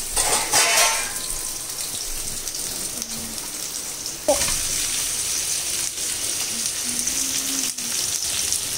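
Sliced shallots and green chillies sizzling steadily in hot oil in a kadai, louder for about the first second.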